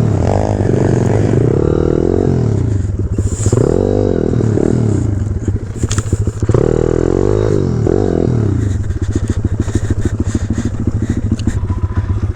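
Small four-stroke pit bike engine revved up and down in repeated surges as the bike picks its way over rough trail, with scraping and clattering. From about nine seconds in it drops to a low, rapid putter.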